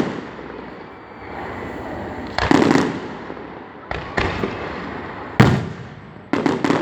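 Aerial fireworks shells bursting overhead: a loud boom about two and a half seconds in, two smaller pops around four seconds, another boom past five seconds, then a quick run of several bangs near the end, each dying away over about half a second.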